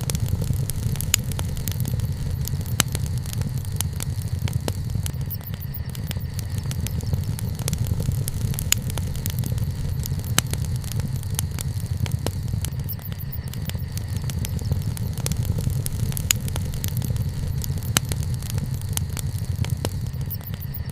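Wood bonfire burning, with sharp crackles and pops at irregular intervals over a steady low rumble.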